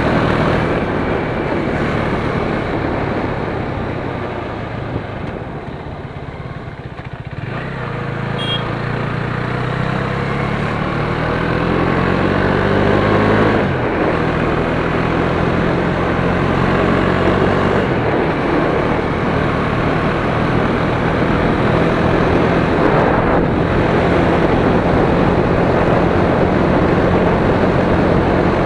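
KTM Duke 390's single-cylinder engine and exhaust under way, mixed with heavy wind rush. The engine eases off around five to seven seconds in, then pulls hard with a rising pitch, shifts gear about fourteen seconds in, and settles into a steady cruise.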